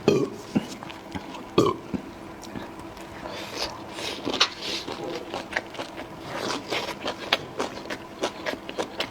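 Close-miked eating sounds: chewing and wet mouth noises, with many sharp short clicks and a few brief breathy bursts.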